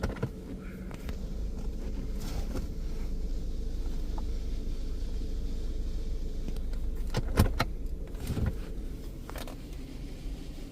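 PDQ Laserwash 360+ automatic car wash running its pre-soak pass, heard from inside the car: a steady low rumble with a faint hum, and a few sharp knocks from about seven to nine and a half seconds in.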